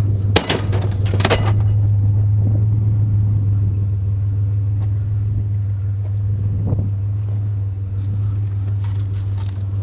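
Truck engine idling as a steady low hum, with two sharp knocks of scrap being handled about half a second and a second and a half in.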